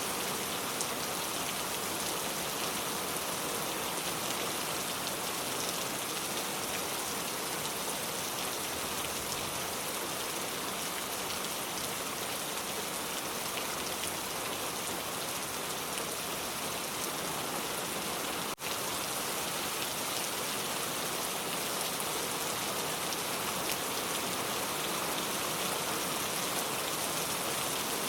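Steady rain falling: a dense, even hiss of many drops, with one momentary dropout about two-thirds of the way through.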